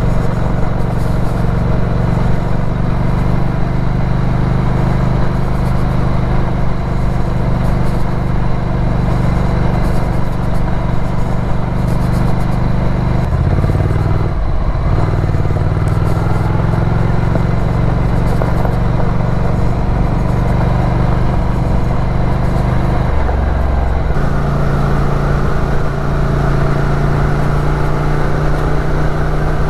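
Ducati Scrambler's air-cooled L-twin engine running steadily while the bike is under way. Its note dips and recovers about halfway through, then steps to a new, higher steady note about three-quarters of the way through.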